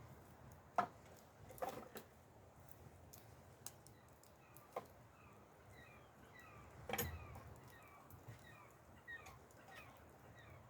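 A wood campfire crackling, with scattered sharp pops and the loudest pop about seven seconds in. A small bird chirps a quick run of short falling notes through the second half.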